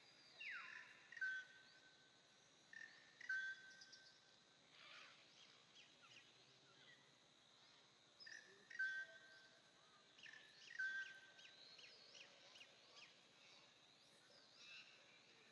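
Faint birdsong: repeated whistled notes, some sliding down in pitch and some held, with scattered short chirps.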